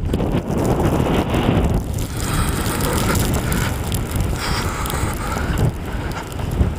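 Storm wind buffeting the microphone: a loud, uneven rushing noise that rises and falls.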